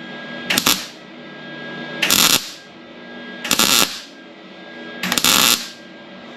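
Welder laying four short, crackling tack bursts on thin sheet steel, each under half a second and about 1.5 s apart. These are stitch welds working around the edge of a hole burned through the panel, to fill it in.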